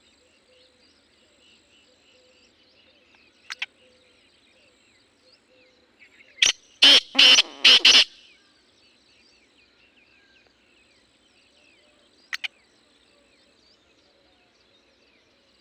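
Black francolin giving its loud, harsh call once, a quick run of about four rasping notes about six and a half seconds in, over faint steady chirping of other birds. Two brief sharp notes sound earlier and later.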